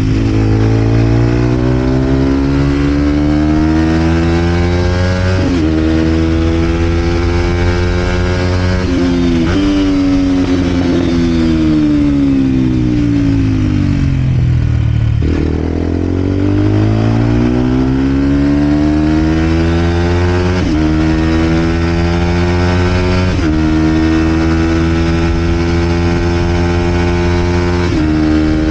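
Vent Derapage 125 four-stroke motorcycle engine with a full Scalvini exhaust, under way: the note climbs and drops sharply at each upshift, sinks as the bike slows about halfway through, jumps back up with a downshift, and then climbs through several more gear changes.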